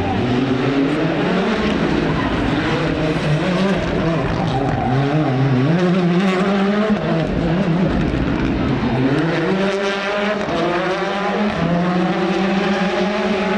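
Rally car engine revving hard, its pitch climbing and dropping back several times as it shifts through the gears on a stage.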